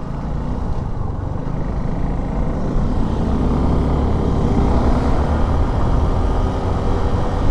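Motorcycle engine running under way with wind and road noise, gradually getting louder as the bike picks up speed.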